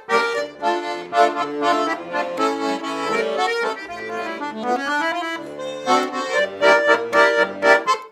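Russian garmon (button accordion) playing the introduction to a song: chords over bass notes, in short rhythmic strokes at the start and near the end, with more held notes in the middle.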